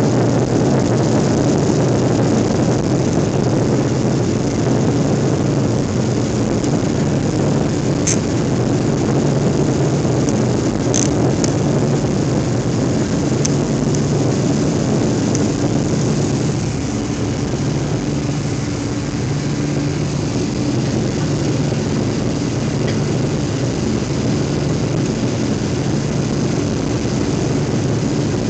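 Jet airliner's engines running steadily at takeoff power, a steady roar with a low hum, heard from inside the cabin during the takeoff and climb. A few faint clicks sound about 8 and 11 seconds in.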